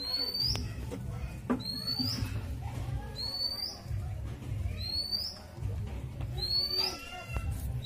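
A bird calling a short, rising whistled note over and over, about every one and a half seconds, over a low rumbling noise.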